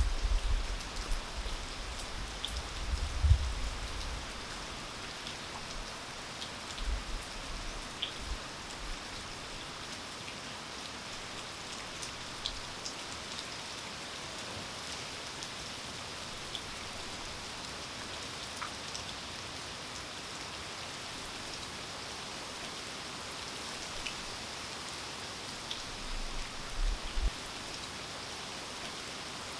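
Steady rain falling, with scattered individual drips ticking against surfaces. A low rumble fades over the first few seconds, and a few brief low thuds come late on.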